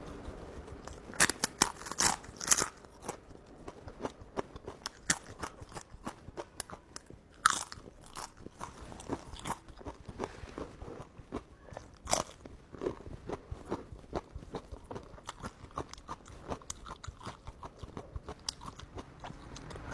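A person eating close to the microphone: steady wet chewing with many small mouth clicks and crunches, and a few sharper, louder crunches about a second in, near the middle and a little after.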